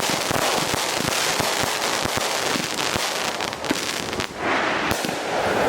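Consumer fireworks going off in a barrage: dense, rapid crackling and popping, with a sharper bang a little past three and a half seconds in. Just after four seconds a rushing hiss takes over.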